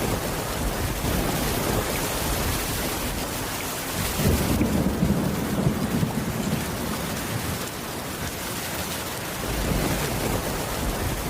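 Steady rain falling, with a roll of thunder rumbling up about four seconds in and fading away a few seconds later.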